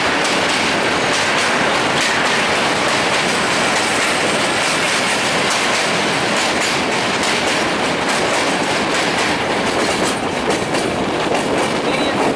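Intercity express train with LHB passenger coaches running, heard from on board: the steady rush of wheels on rails, with a faint clickety-clack of the wheels passing over rail joints.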